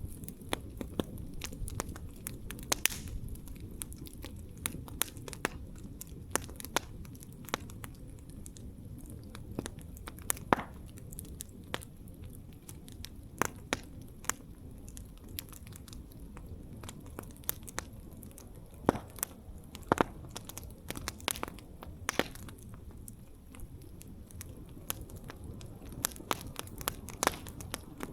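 Wood campfire burning and crackling: a low steady rush of flames with sharp irregular pops and snaps from the burning wood, a few of them much louder than the rest.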